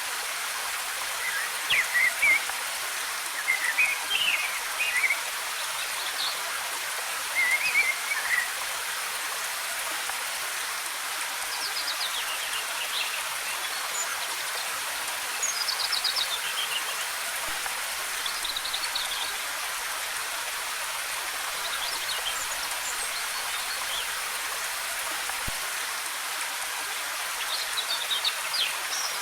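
Waterfall rushing steadily, with forest birds singing short chirping phrases over it every few seconds.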